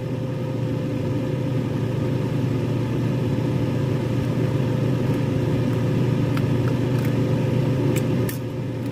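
Microwave oven running with a steady low hum. It quietens a little near the end, with a couple of faint clicks.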